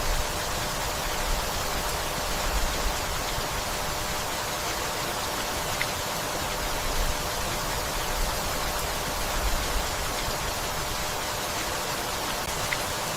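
Steady rainfall, an even unbroken hiss, with a couple of faint ticks of drops about halfway through and near the end.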